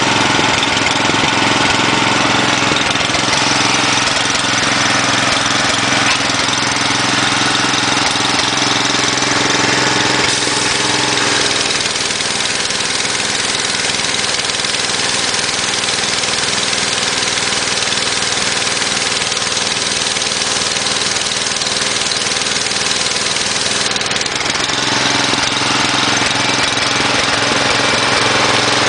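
Small engine of an engine-driven high-pressure washer running steadily. Its even note changes to a rougher, hissier sound about eleven seconds in and returns about twenty-five seconds in.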